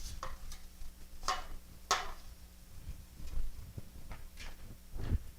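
Kitchen handling noises: a few short, sharp clicks and taps, the clearest two about half a second apart a little over a second in, with a low thump near the end.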